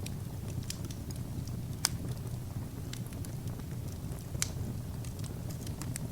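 Wood fire burning: irregular crackles and sharp pops from the burning logs over a steady low rumble of the flames, with two louder pops about two seconds and four and a half seconds in.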